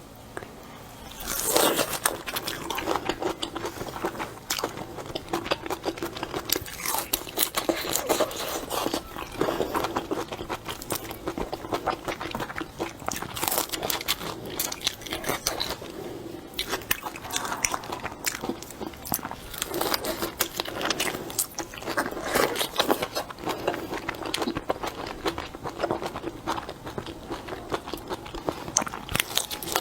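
Close-miked eating of shrimp: chewing and biting with many small, irregular crunching and wet crackling clicks.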